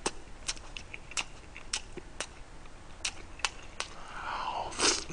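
Close-miked eating: irregular wet mouth clicks and chewing on a mouthful of spicy stir-fry, with a louder breathy sound about four seconds in as another mouthful goes in.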